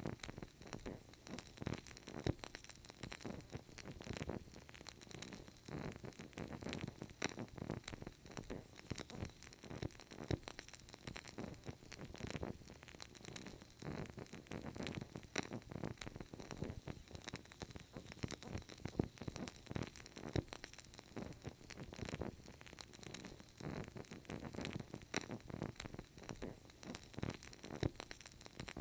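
Burning candle flame with faint, irregular crackling and soft popping from the wick, many small clicks a second over a low hiss.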